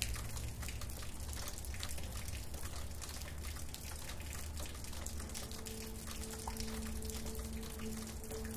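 Rain falling with a dense patter of drops and drips. A soft, held music tone fades back in about halfway through.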